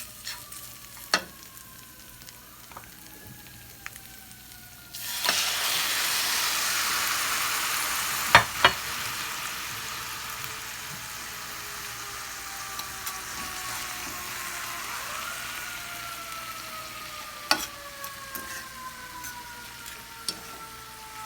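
Chicken going into hot oil in a frying pan: a sudden loud sizzle about five seconds in that slowly settles into steady frying, with a few sharp knocks.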